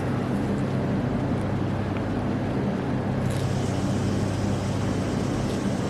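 A steady low motor hum with a faint hiss, unchanging throughout, with no distinct clicks or strokes.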